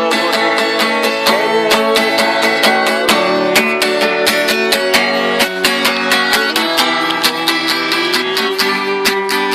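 Acoustic guitar strumming chords in a quick, even rhythm.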